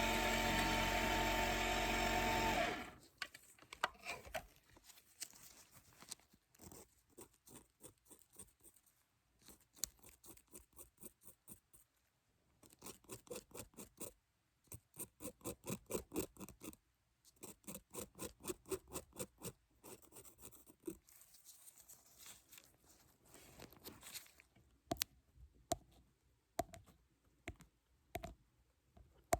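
A dental drill whirring steadily, cutting off abruptly about three seconds in, followed by bursts of quick light tapping, several taps a second, with short pauses between the runs.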